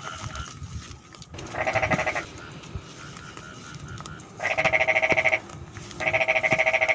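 Rice-paddy frogs calling: three loud rapid pulsed calls, each about a second long, the first about one and a half seconds in and the other two close together near the end, over a fainter steady chorus.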